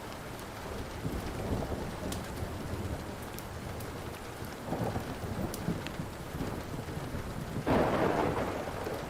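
Steady rain with rolling thunder, and a sudden louder thunderclap a little before the end, over the small sharp pops of a crackling wood fire.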